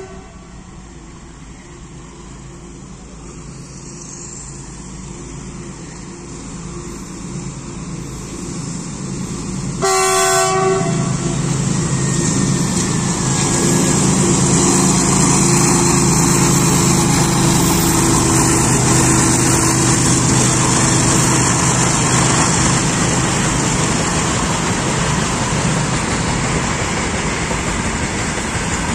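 Indian Railways diesel locomotive approaching, growing steadily louder, and giving one short horn blast about a third of the way in. It then runs past loudly, followed by a long train of covered freight wagons rolling by on the rails.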